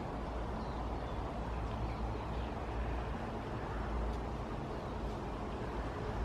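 Steady outdoor background: a low rumble with a hiss over it and a few faint, short bird chirps.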